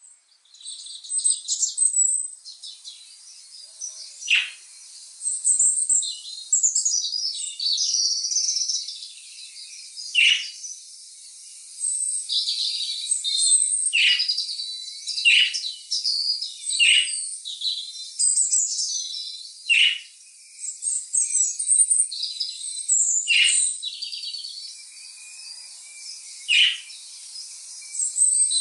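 Songbirds chirping and trilling in a dense chorus, with a sharp falling whistle every couple of seconds.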